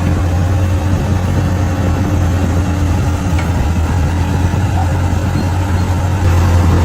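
Bulldozer's diesel engine running steadily with a deep, even hum, getting a little louder near the end.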